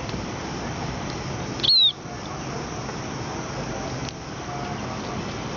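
A small bird gives one sharp chirp that slides downward in pitch, about two seconds in, over steady background noise.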